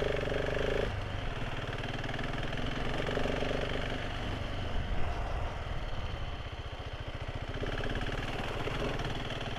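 Motorcycle engine running steadily while riding, its tone shifting slightly, with one short thump about five seconds in.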